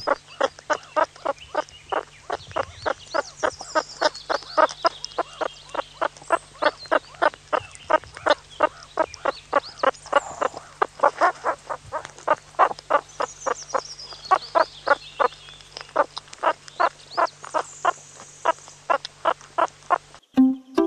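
Groundhog-type marmot calling: a long, even series of short calls, about three a second, that stops just before the end.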